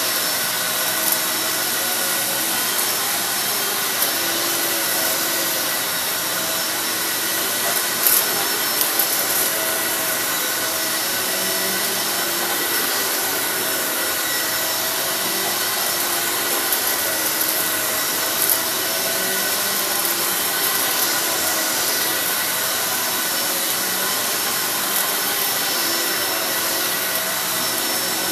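Kenmore 600 Series bagless upright vacuum cleaner running steadily on carpet, with scattered ticks of sand being sucked up.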